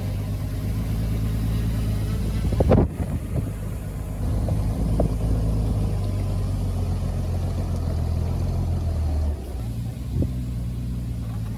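Heavy diesel engine of earthmoving machinery running steadily, with a loud clank about three seconds in. The engine note drops a little after nine seconds.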